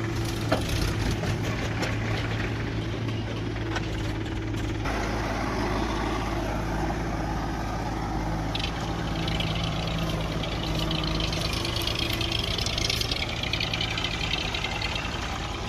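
Heavy diesel engine running steadily, with a few clicks early on. A harsher, higher rattling noise joins about eight seconds in and fades a few seconds later.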